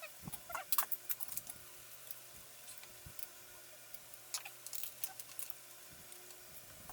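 Scattered light clicks, taps and small rattles of computer parts and screws being handled while components are taken out of a PC case, with a couple of brief squeaks near the start.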